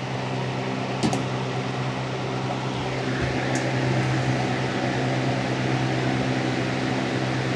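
Lasko B20200 box fan running with a broken blade: a steady motor hum under the rush of air, growing slightly louder over the first few seconds. The broken blade leaves it badly out of balance, shaking the bench it sits on; a short tick about a second in.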